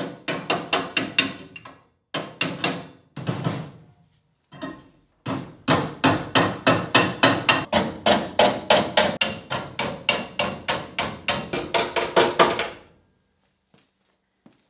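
Hammer blows on sheet steel in quick runs of about four to five strikes a second, with short pauses between runs and a long run that stops near the end. Typical of hammering a repair panel into shape while fabricating a car's sill.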